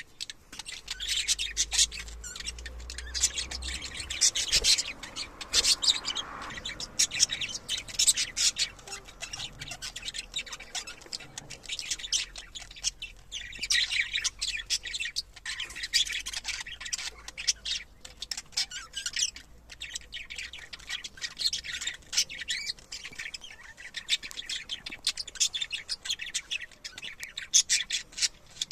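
Budgerigars chattering: a fast, continuous run of high chirps, clicks and warbles, broken by short pauses.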